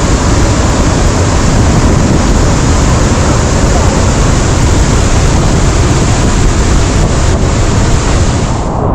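Waterfall: a loud, steady rush of falling water. Near the end the hiss drops away suddenly, leaving a duller rush.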